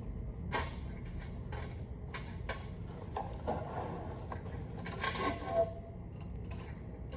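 Hand tools clinking and knocking on metal while a bracket is being unbolted, scattered light metallic clicks with a short ringing clink about five seconds in, over a steady low hum.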